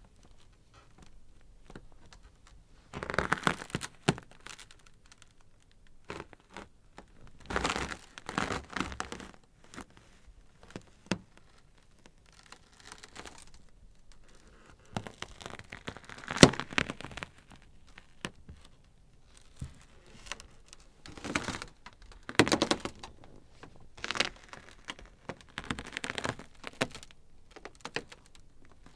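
Ice crackling in irregular bursts of small snaps and crackles, separated by quieter gaps. The loudest is a single sharp crack about halfway through.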